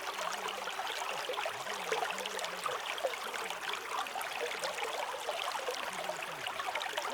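Stream babbling and trickling steadily over stones, with a faint low wavering tone underneath.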